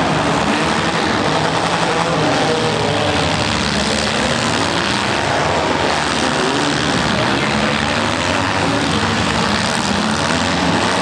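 Several small demolition-derby car engines running hard together, a steady loud din of overlapping engines whose pitch keeps rising and falling as they rev.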